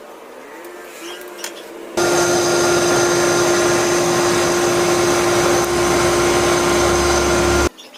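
A motor-driven machine running steadily, a rushing noise with one steady hum through it, starting suddenly about two seconds in and cutting off just before the end.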